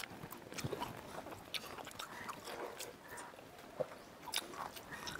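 Faint eating sounds of people eating pakhala with their fingers: soft chewing, lip smacks and small wet clicks, scattered and irregular.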